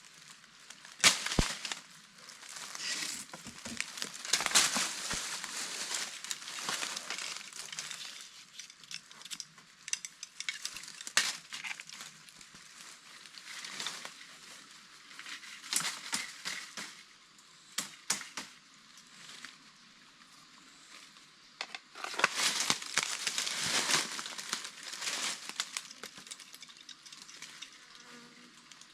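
Dry leaves and twigs rustling and crackling in bursts while a bird trap is set in the undergrowth, with a few sharp snaps scattered through.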